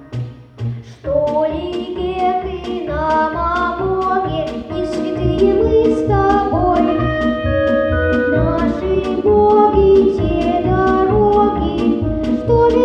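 A solo voice singing a Russian song over instrumental accompaniment with a steady beat; after a short lull in the first second, the voice comes in and carries the melody.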